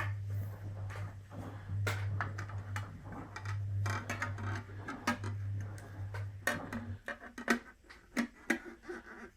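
Irregular clinks and knocks of metal tools and parts being handled, over a steady low hum that cuts off about seven seconds in.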